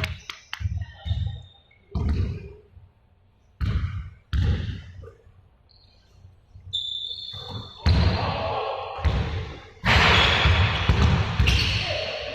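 Bursts of low thuds, like balls bouncing on a hard floor, with quieter gaps between them and a brief high squeak about seven seconds in.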